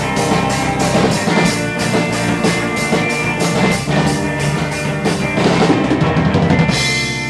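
Live rock band playing loud: a drum kit keeps a steady beat under guitars and bass. Near the end the band hits a chord and leaves it ringing.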